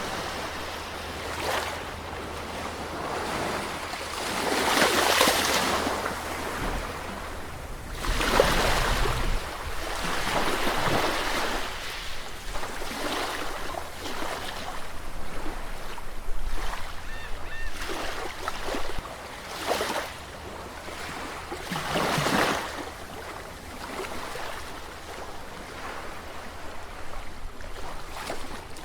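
Sea surf: waves washing in and breaking over and over, each swell rising and falling over a second or two, the biggest breakers about five, eight and twenty-two seconds in, over a steady low rumble.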